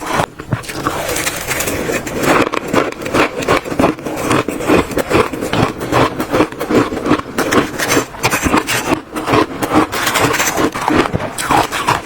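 Close-miked biting and chewing of crunchy shaved ice: a dense, continuous run of rapid crackling crunches.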